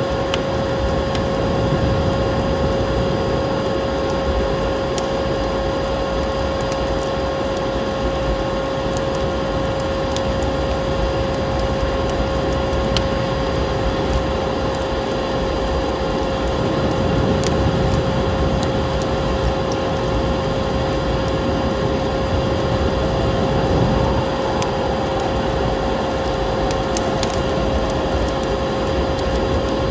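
Vacuum cleaner motor running with a constant whine, mixed with the scattered crackle of a wood fire.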